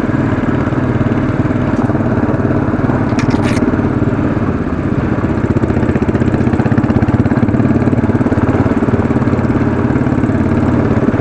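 Royal Enfield Classic 500's single-cylinder engine running steadily under load on a steep climb, pulling without faltering. It gets a little louder after about six seconds, and there is a short click about three seconds in.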